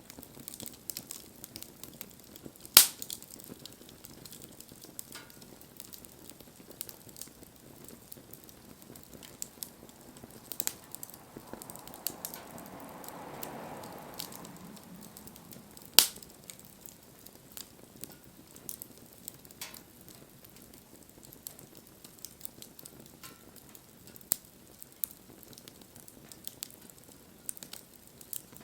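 Wood fire crackling with scattered small snaps and a few sharp pops, the loudest about 3 seconds in and about 16 seconds in. A soft hiss swells and fades around the middle.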